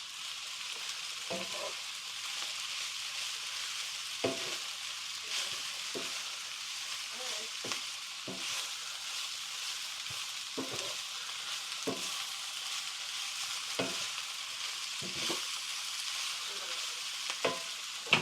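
Vegetables frying and sizzling in a pan with a steady hiss, stirred with a utensil that knocks and scrapes against the pan every second or two.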